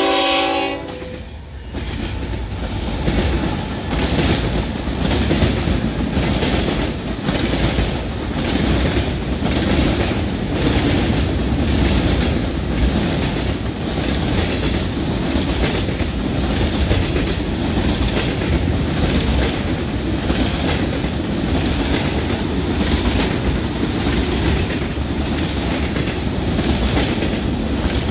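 Train horn chord cutting off about a second in, then a freight train of boxcars, tank cars and covered hoppers rolling past close by: a steady heavy rumble of steel wheels on rail with regular clacks as the cars pass over rail joints.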